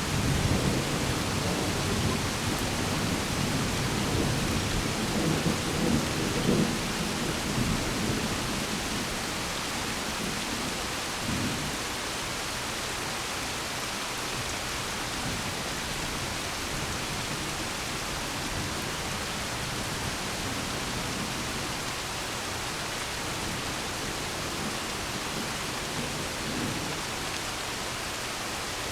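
Thunder rumbling in a few swells over steady rain, dying away after about eight seconds. There is a brief low thump around eleven seconds in, and then only the even hiss of rain.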